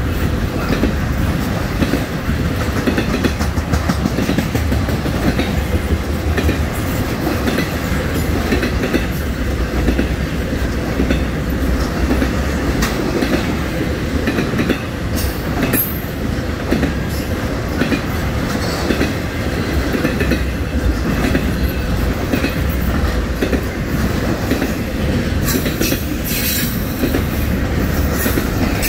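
Norfolk Southern intermodal freight train rolling past, its trailer and double-stack container cars making a steady rumble with wheels clicking over rail joints. Brief high wheel squeals come about halfway through and again near the end.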